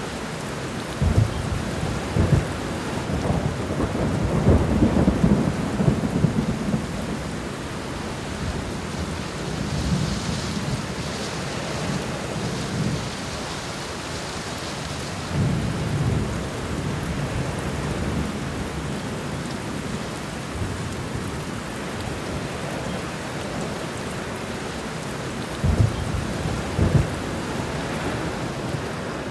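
Thunderstorm: steady rain with rolling thunder. Low rumbles and cracks swell several times, heaviest in the first several seconds, again about halfway through and near the end.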